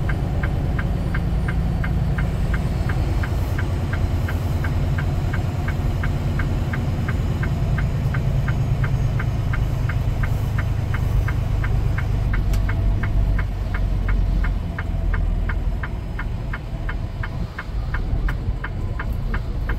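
Semi-truck diesel engine running, heard inside the cab, with a turn signal ticking steadily at about three ticks a second.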